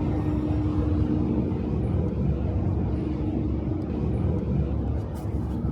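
Metro train running, heard from inside the carriage: a steady low rumble with a constant motor hum.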